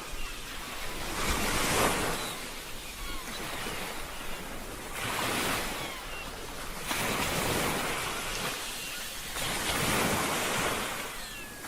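Ocean waves breaking and washing on a shore, the surf swelling about four times, a few seconds apart.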